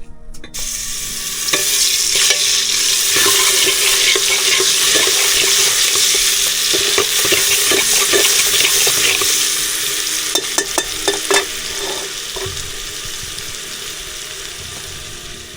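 Food frying in hot oil: a loud sizzle starts suddenly, with a spoon or ladle scraping and knocking against the pan as it is stirred. The sizzle dies down over the last few seconds.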